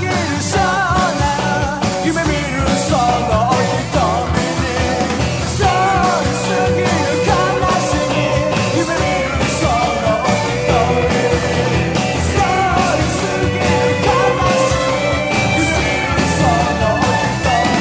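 Rock band playing an instrumental break: a lead melody with bending, sliding notes over drums and bass, at a steady full level.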